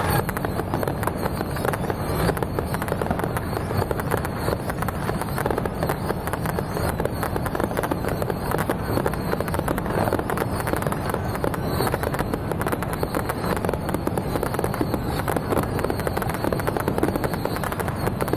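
Fireworks going off in a dense, continuous crackle of rapid bangs that never lets up.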